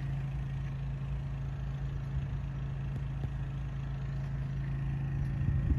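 Small portable generator engine running steadily, a constant low hum.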